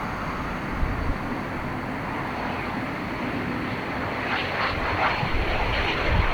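Engine noise of a Red Arrows BAE Hawk jet on approach, a steady rushing that grows louder in the last couple of seconds.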